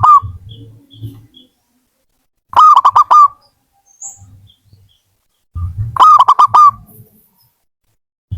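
Zebra dove (perkutut) cooing: short phrases of quick repeated notes, one ending right at the start and two more about every three seconds.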